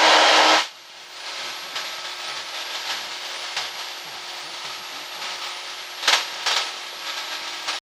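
Cessna 172's six-cylinder Continental O-300 engine and airframe noise heard in the cabin during the climb after takeoff: a steady drone and hiss with a fixed hum. It is louder for the first half second, has two brief louder bursts near the end, and then cuts off suddenly.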